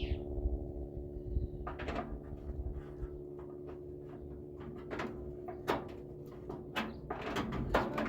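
Scattered knocks and clinks of metal microwave parts being handled and worked on, a cluster of them near the end, over a steady hum.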